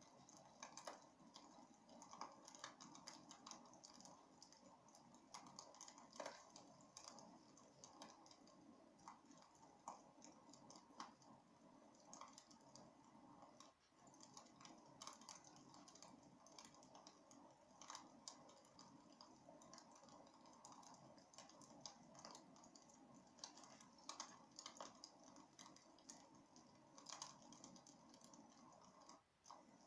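Wood fire burning in a fireplace, with faint irregular crackles and pops over a soft steady hiss.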